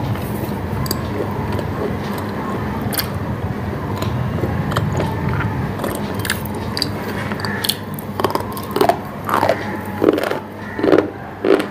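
A person biting and chewing crunchy food, with many sharp crunches over a steady low hum. Several loud, short gulping swallows come in the last few seconds.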